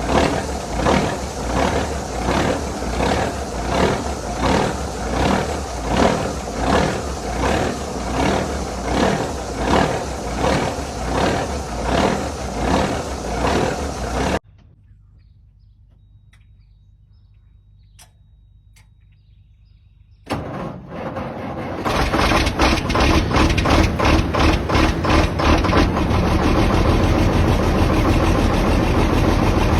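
A diesel truck engine running with an even, lumpy pulse of about one and a half beats a second, cut off abruptly about 14 seconds in. After a few quiet seconds with faint clicks, another diesel truck engine is cranked and fires about 20 seconds in, then runs steadily at a loud cold idle.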